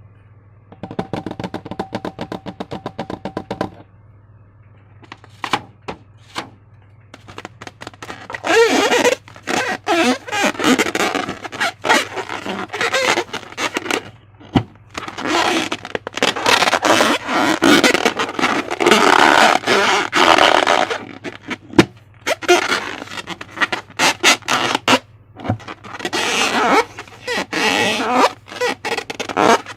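Slime being handled and worked with balloons: sticky crackling and clicking in dense bursts, with a short buzzing rattle about a second in. A steady low hum runs underneath.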